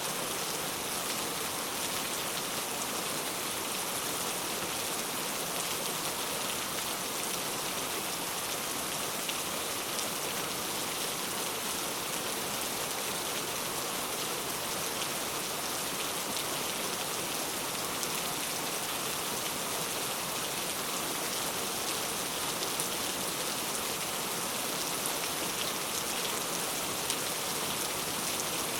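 Steady rain falling: an even hiss with scattered drop ticks, holding at one level throughout.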